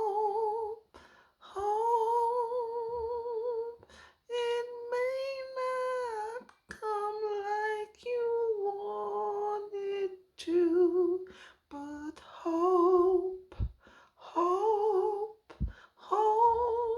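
A high voice singing a wordless melody unaccompanied: long held notes with vibrato, in phrases broken by short pauses for breath.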